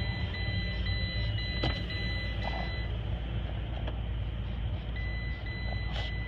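Porsche Cayenne warning chime: a high steady beep broken by short gaps about twice a second, stopping about halfway and starting again near the end, over the low rumble of the idling engine.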